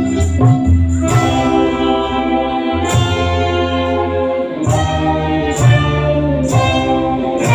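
Orkes Melayu (dangdut) band playing loudly through a PA system: sustained chords over a heavy bass line, punctuated by drum and cymbal hits every second or two.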